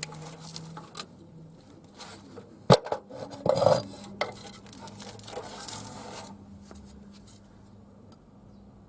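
Hand tools clinking and scraping against the valve rocker gear of an air-cooled VW engine, with a few sharp metallic clicks, while the rockers are checked for free play.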